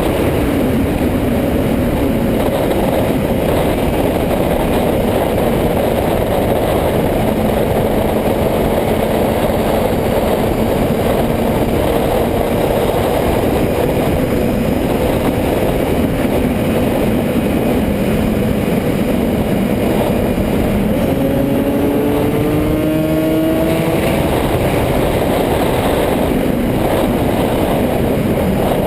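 Motorcycle engine running under way over a steady rushing noise. Its pitch drifts slowly, then climbs in a few quick rises about three quarters of the way through as it accelerates.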